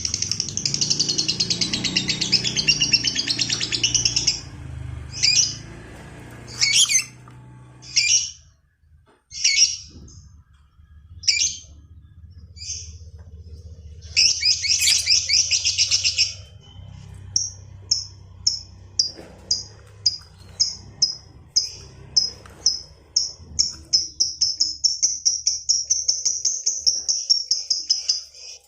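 Lovebird ngekek: a long, fast, high-pitched chattering trill. It breaks off after about four seconds into single sharp chirps roughly once a second, gives another short burst of chatter, then a run of quick clipped notes that speeds up and merges into a continuous trill near the end.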